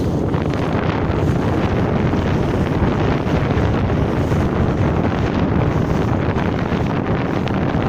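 Strong wind blowing across the microphone as a steady, loud low rumble, over waves on a canal whipped up by the wind.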